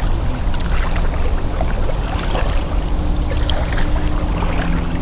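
Small boat moving among branches on a creek: scattered light knocks and water sounds over a steady low rumble with a faint hum.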